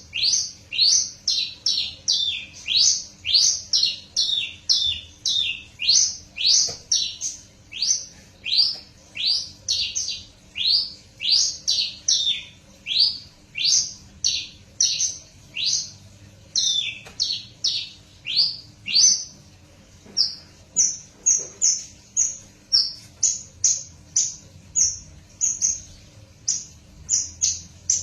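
Hybrid branjangan (bush lark, Parfa male × Javan female) singing a continuous run of quick down-slurred whistled notes, about two to three a second. Around twenty seconds in, the notes turn shorter and higher.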